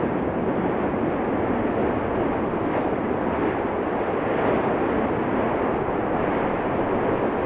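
Erupting Cumbre Vieja fissure volcano giving off a steady, even rushing noise with no breaks.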